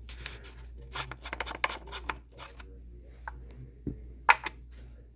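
Handling noises under a van's hood: light rubbing, scraping and clicks of hands working on engine-bay parts, with one sharp click about four seconds in, over a steady low hum.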